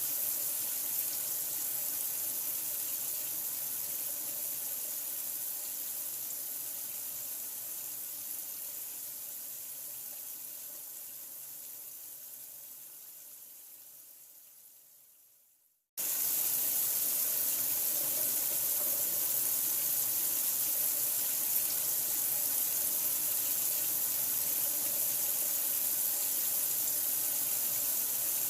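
Steady running water, a hiss-like rush strongest in the high range. It fades away slowly to silence over about fifteen seconds, then comes back suddenly at full level about halfway through and runs on steadily.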